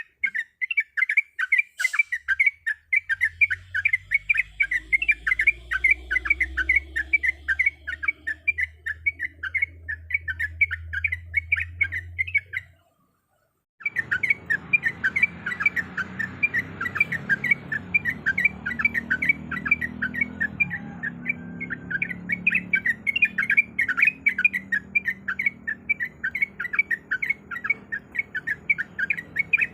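Yellow-vented bulbul (trucuk) calling in a rapid, unbroken chatter of short chirps, several a second. The calling breaks off for about a second of silence near the middle.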